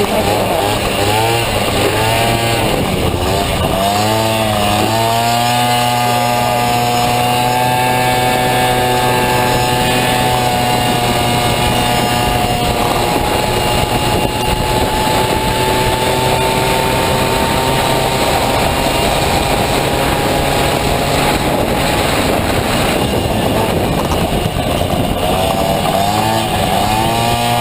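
Two-stroke Honda Dio scooter engine in a Honda Motocompo, running at high revs: its pitch rises and falls for the first few seconds, then holds steady for a long stretch with a small step up near the middle, and swings up and down again near the end.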